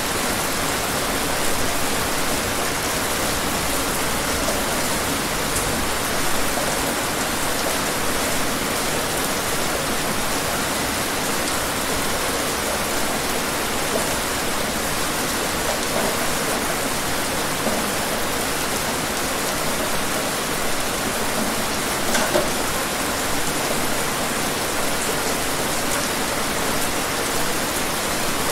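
Steady rain falling: an even hiss of many drops, with a few louder drop hits here and there.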